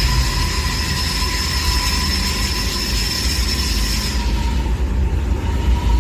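Train running with a steady low rumble and a thin steady whine above it; the high hiss and whine fall away about four seconds in.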